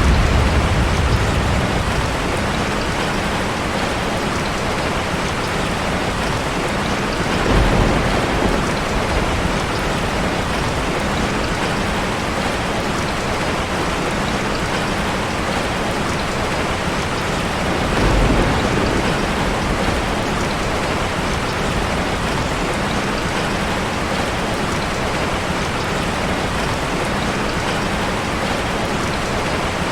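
Heavy rain hitting a car, a steady dense hiss of drops. Low rumbles of thunder swell near the start, about 7 seconds in and again about 18 seconds in.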